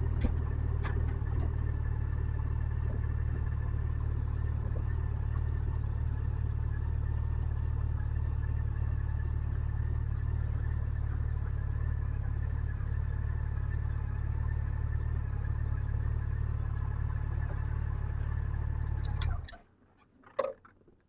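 Motorcycle engine running at a steady, unchanging pitch, with a low rumble; the sound cuts off suddenly about nineteen seconds in, leaving a few faint clicks.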